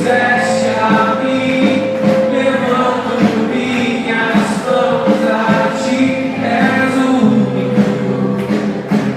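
Gospel worship music: a group of voices singing held notes over instrumental accompaniment.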